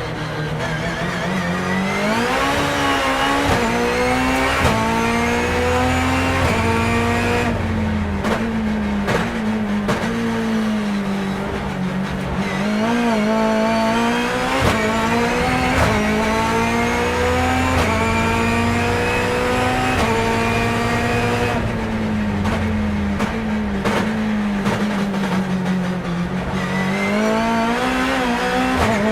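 Turbocharged BMW S14B20 four-cylinder in an E36 race car, heard on board at full throttle. The pitch climbs through the revs and drops sharply at each quick sequential upshift. Twice the car brakes, with a rapid run of downshifts before it accelerates again.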